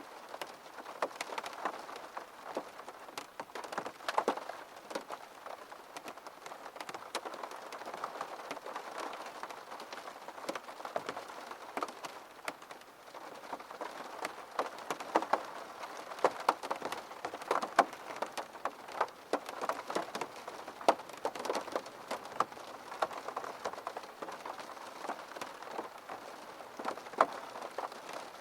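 Rain falling steadily on a window, with a constant patter and many irregular sharper drop taps.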